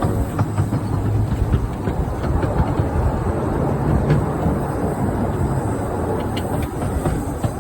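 15-inch gauge steam locomotive running slowly along the track: a steady low rumble with many irregular clicks and knocks from wheels and running gear.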